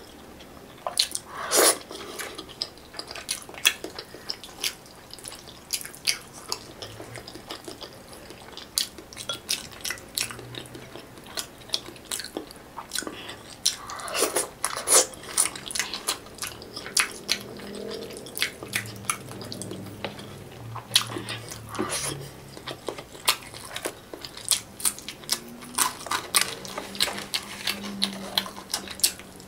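Close-up eating sounds of a person chewing fried dried fish (tuyo) by hand, with many sharp crisp crunches and wet mouth clicks coming irregularly throughout.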